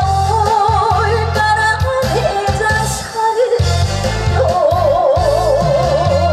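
A woman singing a trot song with heavy vibrato over live band accompaniment, ending on a long held, wavering note in the second half.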